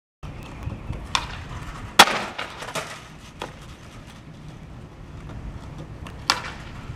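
Skateboard wheels rolling on concrete with a low rumble, broken by several sharp board clacks of pops and landings; the loudest comes about two seconds in, and another near the end.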